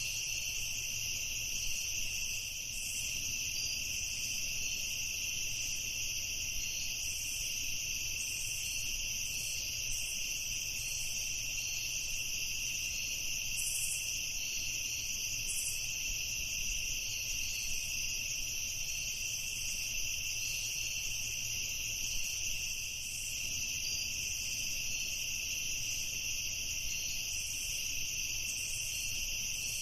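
A chorus of night insects trilling steadily at two high pitches without pause, over a faint low rumble.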